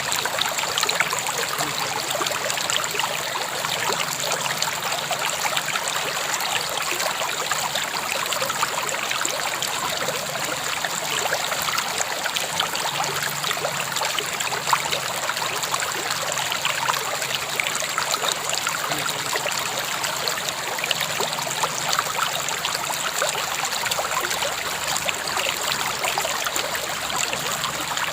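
River water flowing and babbling steadily, a continuous splashing rush with fine trickling detail.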